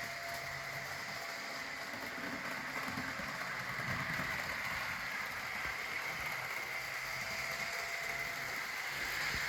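HO scale Walthers Trainline GP15-1 model locomotive running around the layout: a steady whir of its motor and gears with its wheels rolling on the rails, growing a little louder about four seconds in.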